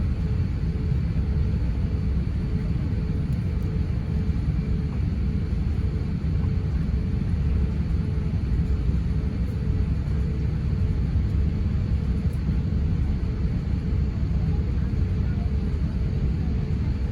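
Steady low rumble of an Airbus A350-900 heard from inside the passenger cabin, with a faint steady hum above it.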